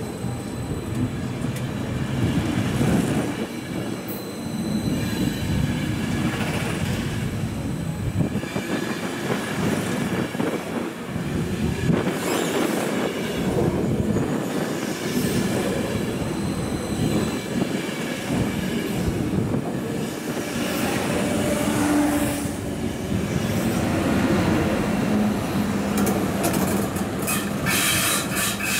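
ÖBB passenger coaches rolling past at close range as a locomotive-hauled train moves along the platform track. The wheels clack over the rail joints in a steady rumble, with brief squeals from the wheels.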